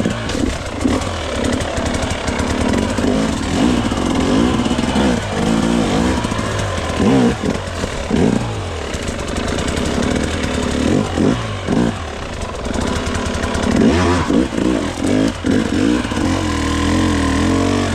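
GasGas hard enduro dirt bike engine revving in repeated bursts, its pitch rising and falling as the rider works the bike up and over a log, with the strongest surge near the end.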